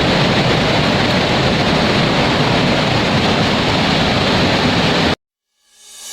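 Steady loud rush of flowing water, a waterfall-like roar, which cuts off abruptly about five seconds in, leaving silence as music begins to fade in at the very end.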